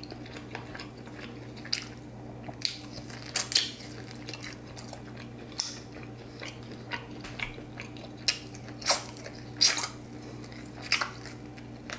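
Close-up wet chewing and sticky lip smacks from eating saucy fried pork spare ribs: short clicks every second or so, over a faint steady hum.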